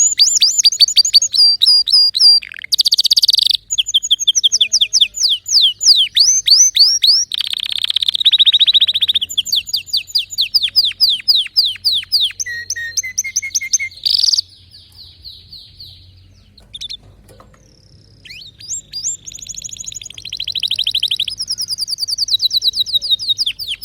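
Domestic canary singing a long song of rapid trills and rolls made of quickly repeated whistled notes, falling quieter for a few seconds past the middle before a second run of trills.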